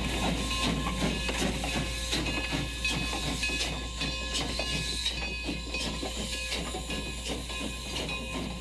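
Model train running on a model railroad layout, with a steady hiss and many quick clicks, over a constant low hum.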